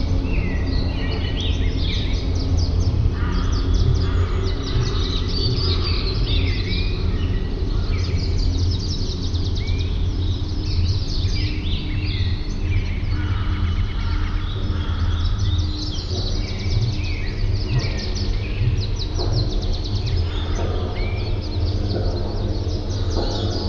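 Many small birds chirping and singing at once in a dense, overlapping chorus of short calls, over a steady low rumble.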